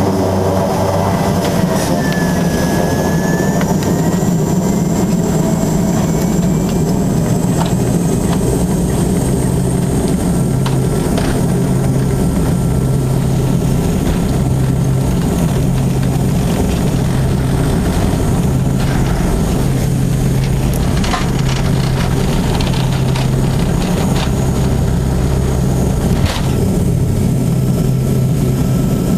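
Dornier 328's twin turboprop engines heard from inside the cabin at takeoff power, rising in pitch in the first several seconds as they spool up, then a steady loud drone. A few sharp knocks come through in the second half, from the aircraft bumping along the runway or in rough air.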